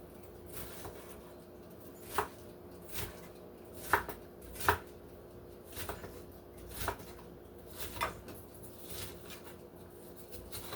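A kitchen knife chopping on a cutting board, dicing red onion: about ten separate strikes at an uneven pace of roughly one a second, the two loudest near the middle.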